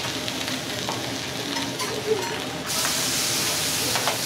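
Meat frying on a hot iron teppan griddle, a steady sizzle with a sharp metal click of a spatula about two seconds in. Near three seconds in the sizzle suddenly turns louder and hissier.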